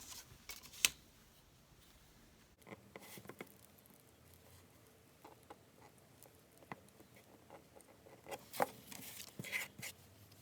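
Paper and craft materials being handled on a work surface: scattered soft rustles with light taps and clicks, a sharper click about a second in and a busier cluster near the end.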